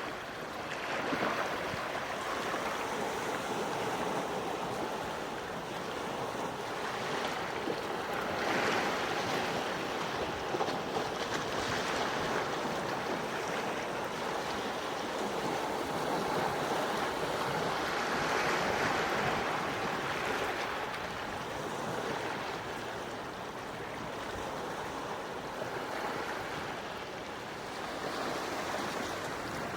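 Small, gentle waves washing onto a shore, a steady hiss of water that swells and fades every few seconds.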